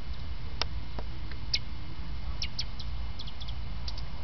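Northern cardinals giving sharp, high chip calls, about ten short notes at irregular intervals, some in quick pairs, over a steady low rumble.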